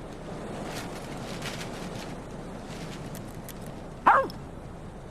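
Steady wind blowing. A dog barks sharply about four seconds in and again right at the end.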